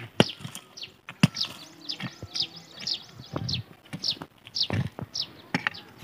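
A bird calling with a quick run of short chirps that slide downward, two or three a second, over scattered sharp knocks.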